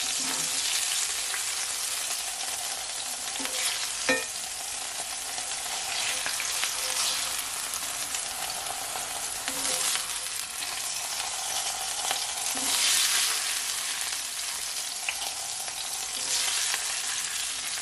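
Chicken pieces frying in hot oil in a skillet: a steady sizzle. A slotted spatula lifts pieces out, with a light knock about four seconds in and a few faint clicks.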